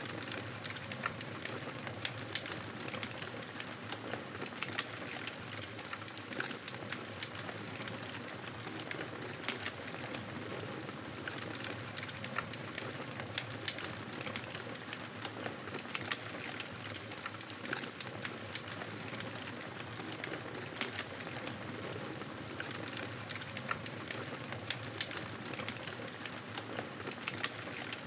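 Wood fire crackling steadily, with frequent sharp irregular pops and snaps over a soft hiss of flames.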